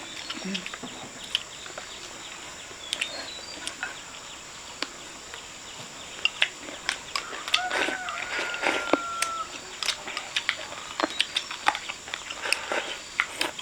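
Close-up crunchy chewing of pork skin, heard as many sharp, irregular crackles. A chicken gives one drawn-out call about eight seconds in, over a steady high insect hum.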